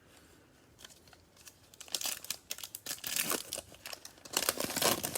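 Plastic wrapper of a trading card pack being torn open and crinkled by hand. It starts faintly about a second in and comes in irregular crackling bursts, loudest near the end.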